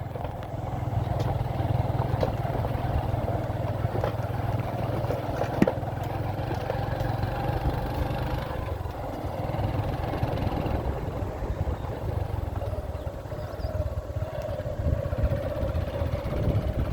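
Boda boda motorcycle engine running while riding, with road noise; the engine's steady note becomes rougher and less even about eight seconds in. A sharp knock about five and a half seconds in.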